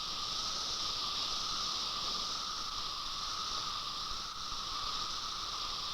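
Male periodical cicadas chorusing in unison: a steady, high-pitched, unbroken buzz with a lower steady tone beneath it. This is their mating call, made by the drum-like sound organs under the wings.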